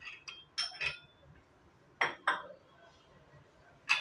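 Metal gym weights clinking and clanking: a series of sharp metallic knocks with a short ring, in small clusters near the start, about two seconds in and at the end.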